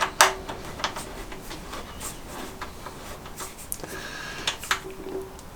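Irregular light clicks and taps of hand tools on metal, a strong click just after the start and a handful more spread through, as mounting bolts are tightened down onto rubber washers.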